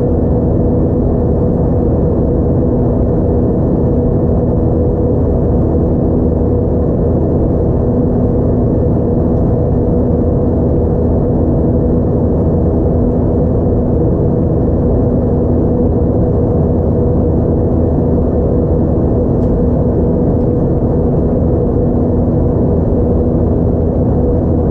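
Steady cabin noise inside an Airbus A320-232, its IAE V2500 jet engines running: a constant deep rumble with a steady hum of fixed tones over it.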